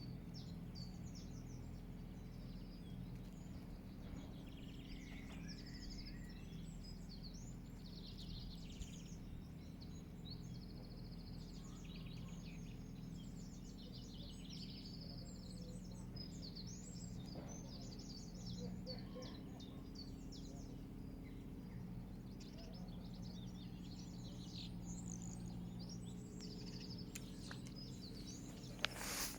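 Many small songbirds chirping and trilling over a steady low rumble of outdoor background noise, with one sharp knock just before the end.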